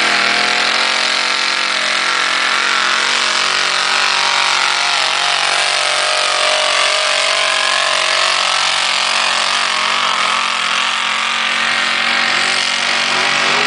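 Engine of a tractor-pull vehicle running loud and hard at high revs, its pitch holding steady with slight wavering.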